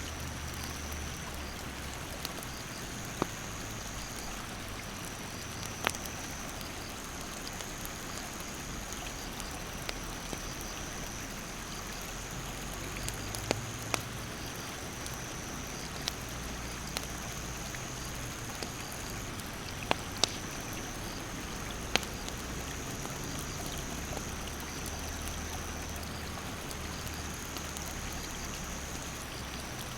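Wood campfire crackling with sharp single pops every few seconds, over the steady rush of a rapid mountain stream. A high, thin insect trill runs on top, breaking off and starting again every few seconds.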